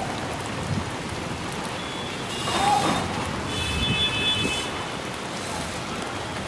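Heavy rain pouring down in a steady hiss, swelling louder about two and a half seconds in.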